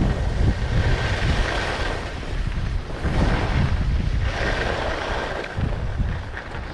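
Strong wind buffeting the microphone in a constant uneven rumble, with two surges of hiss, each about a second long, starting about a second in and again about four seconds in.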